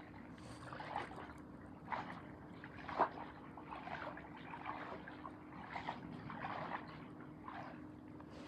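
Water trickling in small irregular spurts, one a little sharper about three seconds in, over a steady low hum.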